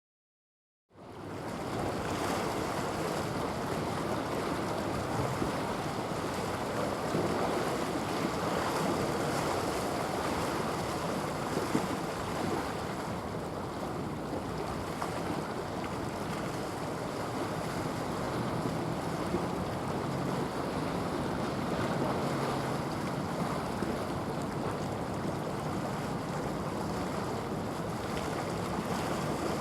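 Steady wind noise on the microphone over the wash of sea water, starting suddenly about a second in and holding at an even level.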